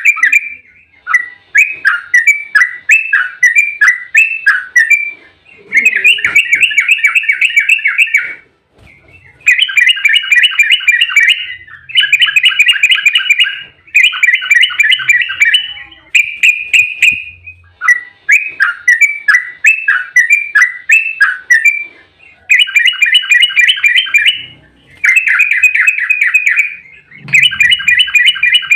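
Sooty-headed bulbul (trucukan) singing its rapid rolling 'ropel' song: repeated bursts of quick chattering notes with short pauses between them.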